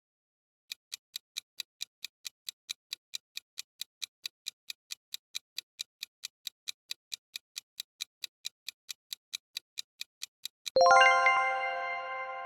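Countdown-timer sound effect: a long, even run of quick clock-like ticks, then near the end a bright bell-like chime that rings out and slowly fades, marking time up.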